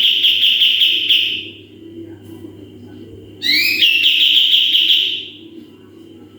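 Kapas tembak songbird singing its rapid-fire 'tembakan' bursts: two long, loud, high trills of fast-repeated notes, each opening with quick rising notes, one ending about a second and a half in and the next starting near the middle, over a faint steady hum.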